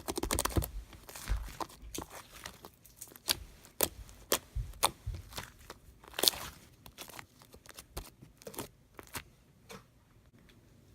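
Blueberry sherbet slime being squished and poked by hand, giving irregular sharp clicking pops and crackles, denser at first and thinning out near the end.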